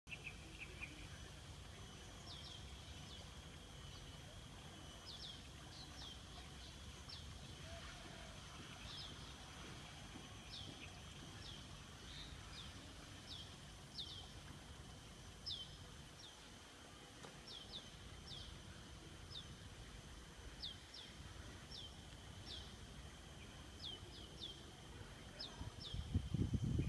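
Faint outdoor ambience: a bird repeating short high chirps that fall in pitch, about one or two a second, over a steady high drone and a low rumble. Near the end comes a louder burst of low rumble.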